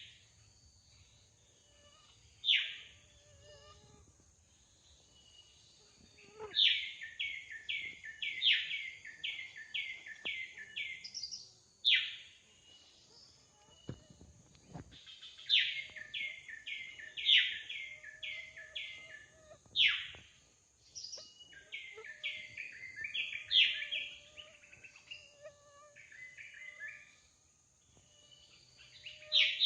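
Drongo singing: loud downward-sweeping whistles every several seconds, between runs of quick repeated chirping notes, about two or three a second, under a steady high-pitched buzz.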